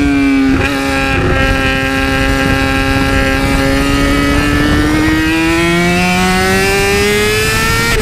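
Yamaha R6 600 cc inline-four sport bike engine at high revs. The revs fall briefly at first, hold steady, then climb steadily for about three seconds, with a gear change right at the end.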